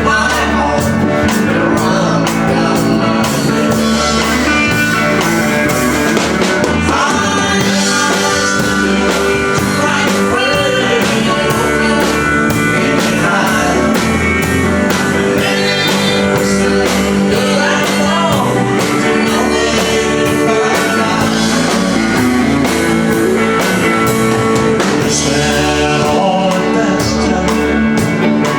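Live country-rock band playing a song: drums keeping a steady beat under bass and electric guitar.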